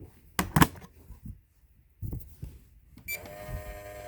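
A few plastic knocks and clunks as the letter B piece goes into a toy ABC transforming microwave. About three seconds in, the toy starts a steady electronic tone, its cooking sound.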